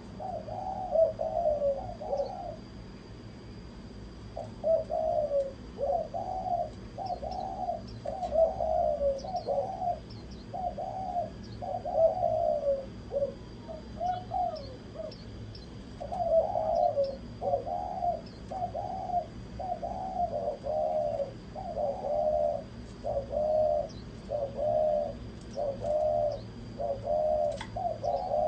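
Female spotted dove cooing in quick runs of short, soft notes, broken by brief pauses, the call keepers play to excite male doves. Faint high chirps of small birds come through now and then.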